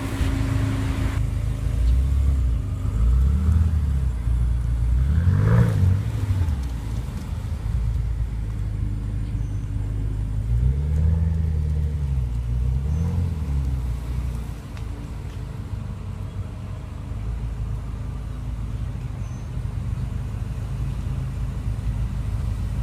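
BMW M5 F10's twin-turbo V8 idling with four short revs, the pitch climbing and falling back each time, the second the strongest; for the last several seconds it settles into a steady idle.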